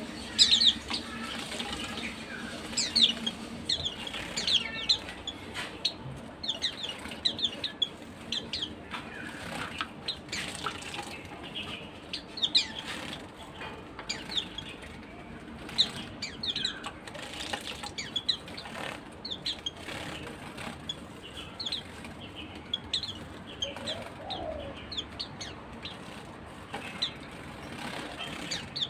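Pleci (white-eye) songbirds giving many short, high chirps throughout, mixed with brief bursts of wing flapping.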